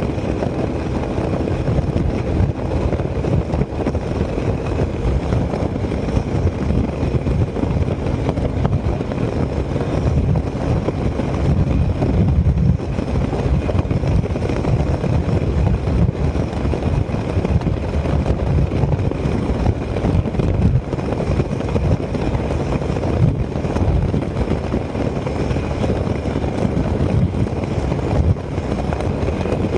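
Zontes 368G maxi-scooter held at high speed near its top speed. Its steady engine drone is mixed with heavy wind rush and buffeting on the microphone, and a faint high whine holds steady throughout.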